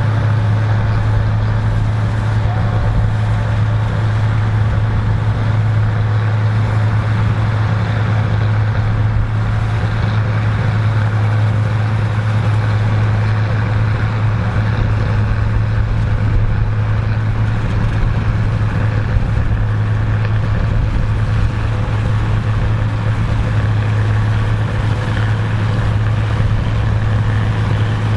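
Engine of vintage harvest machinery running steadily at constant speed, a loud unchanging low drone with mechanical noise over it.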